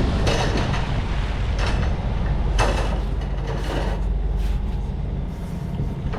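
Yanmar 75 hp marine diesel running steadily under way, with repeated gusts of wind buffeting the microphone.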